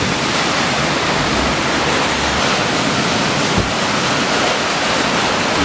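Heavy thunderstorm rain and wind, a loud steady rushing, with wind rumbling on the microphone and a brief thump about three and a half seconds in.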